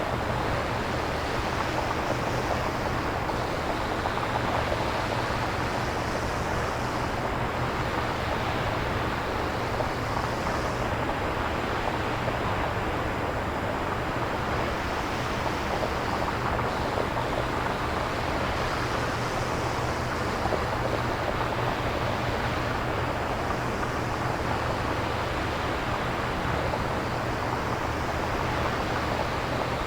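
Synthesized nature-sound ambience with no samples: a steady rushing noise with slow, gentle swells.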